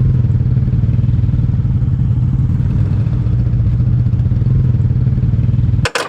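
Suzuki GSX-8S parallel-twin motorcycle engine running at a steady pitch, with no revving, then cutting off suddenly near the end, followed by a couple of clicks.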